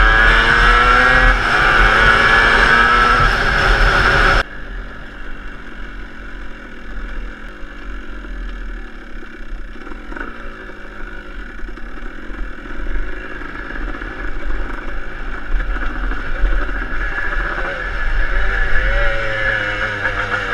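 Motocross bike engine revving hard, its note climbing, then dropping abruptly to a quieter engine note that rises and falls with the throttle and picks up again near the end.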